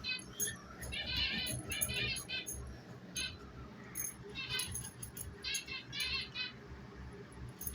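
Pet budgerigars chirping and chattering in short, quick warbling bursts, one after another, with faint high clicks between them.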